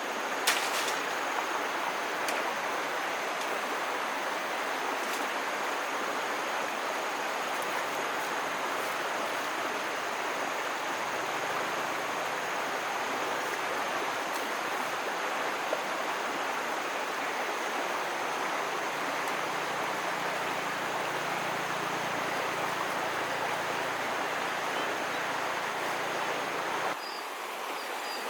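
Steady rushing noise, like running water, with a faint high steady whine above it and one sharp click about half a second in; the sound changes abruptly near the end.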